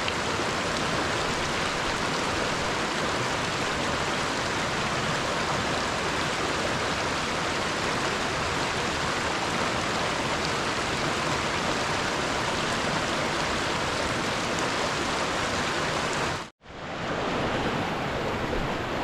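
A river flowing, a steady rushing noise close by. It cuts out abruptly for a split second near the end, then carries on.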